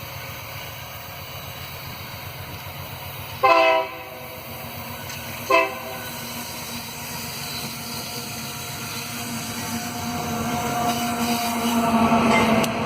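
Train locomotive horn sounding two short blasts, about two seconds apart, the first the longer. Then the train's running noise and engine hum grow steadily louder as it approaches.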